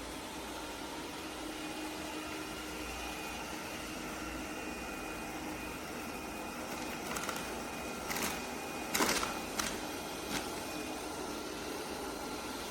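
Robot vacuum running with a steady whirring hum, with a few short knocks or clicks between about seven and ten seconds in.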